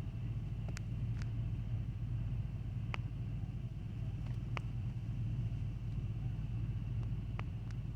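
A vehicle engine idling steadily, a low rumble, with a few faint clicks.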